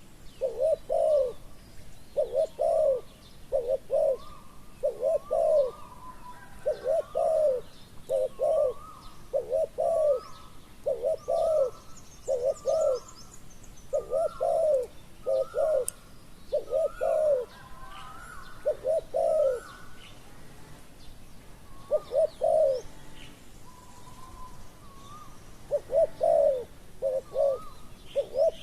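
Spotted doves cooing: deep coo notes repeated in short phrases of two or three, with a short break a little past the middle. Higher, fainter bird chirps sound over them.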